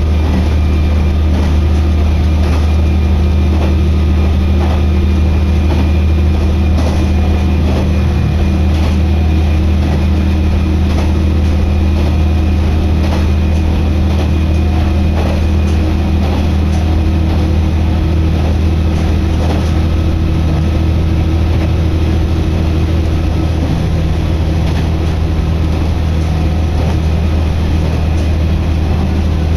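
Diesel railcar running along the line, heard from inside the passenger cabin: a loud, steady low engine hum over constant running noise.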